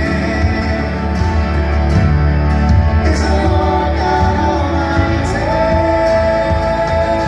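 Live worship band playing a Christian rock song, a male lead voice singing over drums, bass and guitars, holding a long note over the last couple of seconds.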